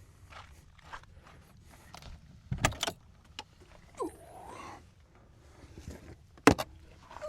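Metal camper hardware being handled: jangling clicks and clanks, with two sharp knocks the loudest, about two and a half and six and a half seconds in, and a brief squeak around four seconds.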